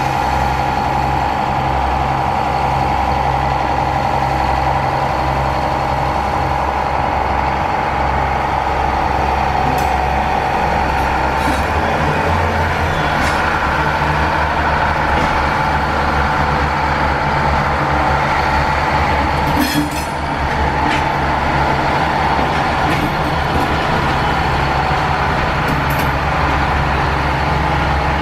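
Redhen diesel railcar running steadily: a low engine drone with a steady whine above it. The engine note shifts about twelve seconds in, and there is a brief clatter about twenty seconds in.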